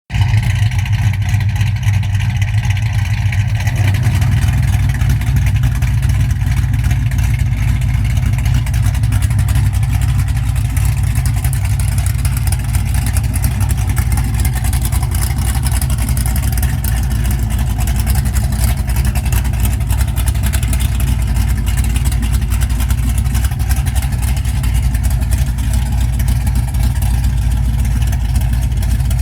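1969 Dodge Charger R/T's 440 cubic-inch V8 running with open headers: a loud, steady rumble at idle, with a small change in its note about four seconds in.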